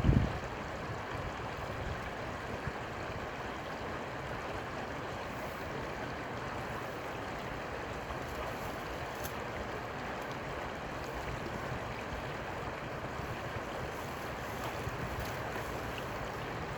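Steady rushing of river water, an even hiss with no rhythm or pitch.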